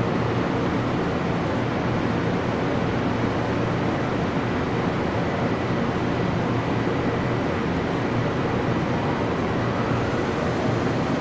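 Electric train pulling out of a station, a steady running rumble and rush of wheels and motors.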